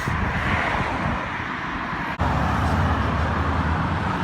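Steady outdoor road noise: traffic and wind rumble with a hiss, no clear single event. About two seconds in the sound cuts off for an instant and resumes slightly louder and lower.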